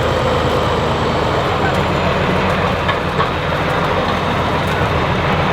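Heavy off-road trial truck's diesel engine running steadily under load.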